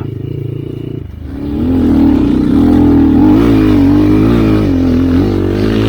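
Enduro dirt bike engine pulling under throttle: after about a second of steady running it picks up and holds high revs, the pitch wavering up and down as the throttle is worked.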